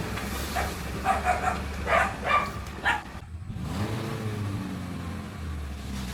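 Restored Suzuki truck's engine running steadily, with a dog barking several times in the first half.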